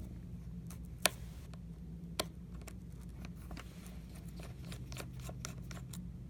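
Light clicks and ticks of small hand tools and tiny screws being worked on an iPad mini's frame, with two sharper clicks about one and two seconds in. A steady low hum runs underneath.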